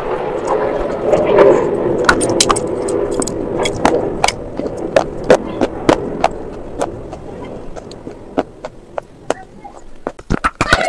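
Crunching of slate pencils, the chalky clay sticks, as they are chewed: many sharp, crisp cracks, coming closer together near the end. A muffled background murmur runs under the first half.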